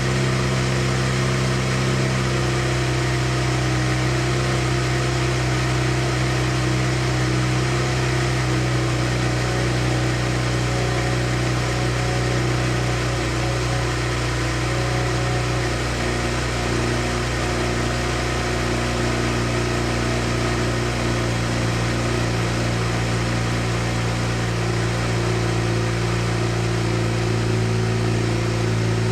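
Mazda RX-7 FC3S's turbocharged rotary engine running at a steady speed, an even tone with no revving.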